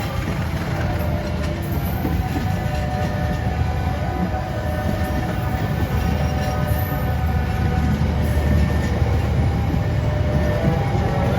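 Train running past at speed: a loud, steady rumble of wheels on the rails, with steady tones held above it.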